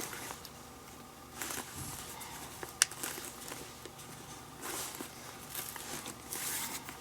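Leather lace being pulled through the lacing holes of a Rawlings Gamer baseball glove during a full relace: a few short rubbing swishes, with one sharp click a little under three seconds in.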